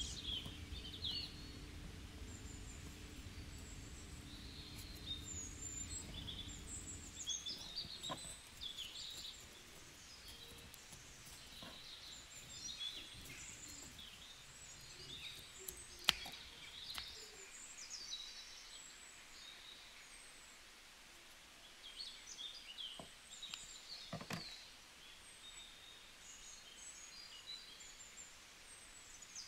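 Faint birds chirping in the background, with a low hum under it for the first several seconds, a sharp click about halfway through and a soft knock later on.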